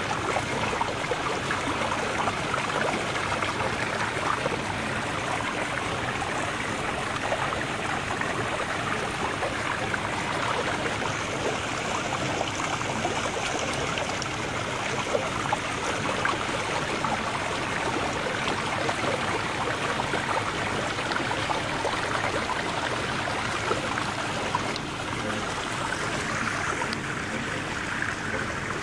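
Steady running water, like a flowing stream, with a fine trickling texture.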